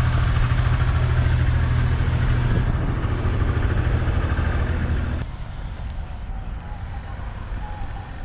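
Street traffic with a nearby vehicle engine running in a steady low hum. About five seconds in, the hum cuts off abruptly and only quieter street noise is left.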